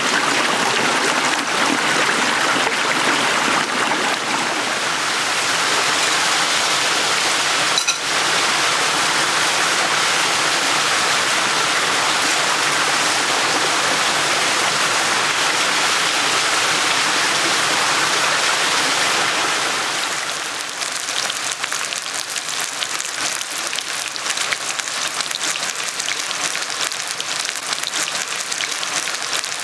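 Shallow stream water flowing and burbling steadily, with one short click about a quarter of the way in. About two-thirds of the way through the flow gives way to a finer, crackling patter.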